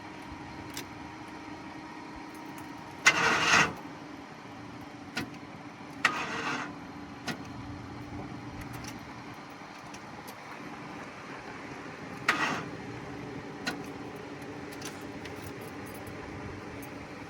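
Starter of a 1996 Ford F-150 inline-six making three short, weak cranks of about half a second each; the engine does not catch. The owner takes the feeble crank for a starter not engaging properly or a dead battery. A steady low hum runs underneath from the jump-start car's idling engine.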